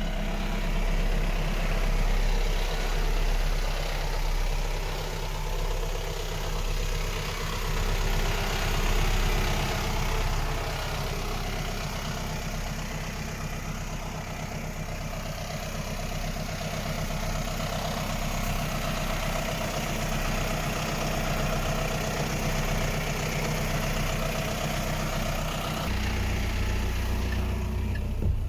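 Renault D 220 truck's diesel engine idling steadily. Its low note changes and fills out near the end.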